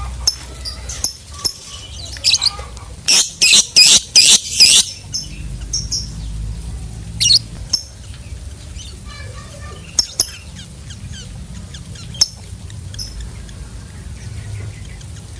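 Lovebird calls: scattered sharp, high chirps, with a run of about five loud shrill calls in quick succession between about three and five seconds in.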